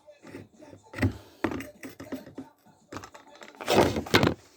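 Irregular knocks, taps and short clatters of objects being handled, with a louder run of clattering near the end. No power tool is running.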